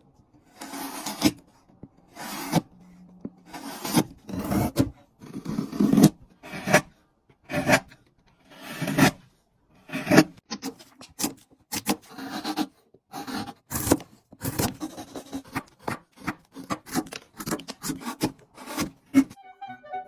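Wooden board being cut in separate rasping strokes, long and slow at first, then shorter and quicker from about halfway.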